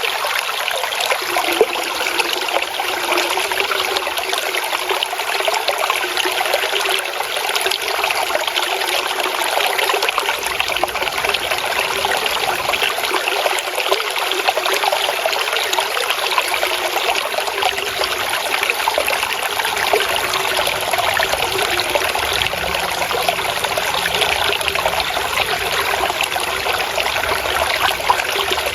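Water flowing and trickling steadily, a stream or small cascade with a continuous splashing hiss that stays even throughout.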